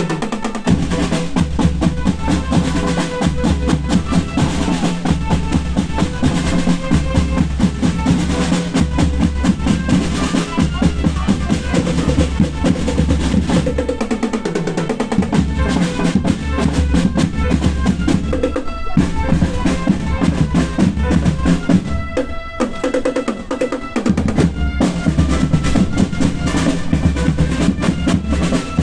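Marching band playing, with rapid snare-drum rolls and pounding bass drums driving under a melody from the pitched instruments. The bass drums drop out briefly twice, once about halfway through and again a few seconds later.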